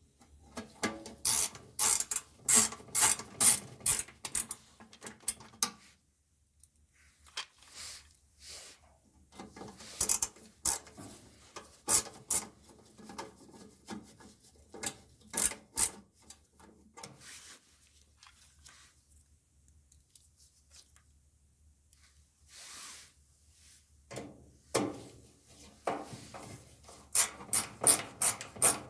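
Hand work on a dryer's blower housing: runs of sharp clicks and scraping, several a second, with a quiet stretch about two-thirds of the way through.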